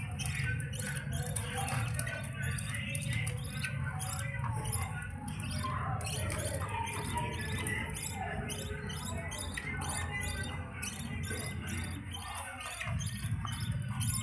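Budgerigar chicks making rapid raspy chattering begging calls while the mother budgie feeds them, over a steady low hum that drops out briefly near the end.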